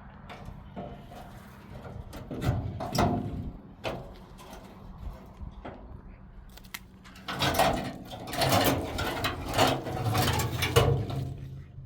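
Clicking and rattling handling noise in two bouts, a short one about two seconds in and a longer one from about seven seconds in, over a faint low hum.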